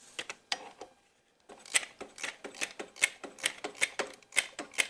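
Hand ratchet wrench clicking as a bolt is worked loose in a tight spot: a few clicks, then from about a second and a half in, a steady run of sharp clicks at roughly four a second.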